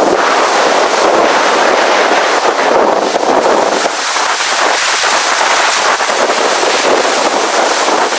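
Strong blizzard wind, a loud steady rushing with a crackly, buffeting texture on the microphone.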